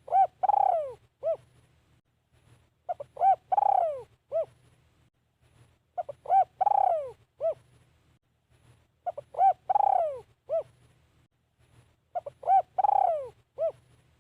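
Spotted dove cooing its territorial song, the same phrase about every three seconds, five times. Each phrase is two or three short coos, then a longer coo falling in pitch, then a short final note.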